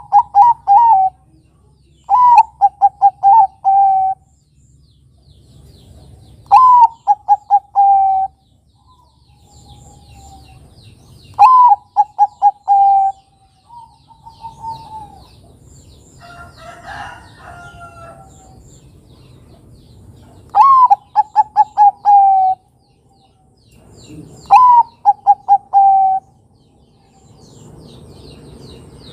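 Zebra dove (Bangkok-bred perkutut) cooing: six phrases, each an upward opening note followed by a quick run of short coo notes, repeated every few seconds.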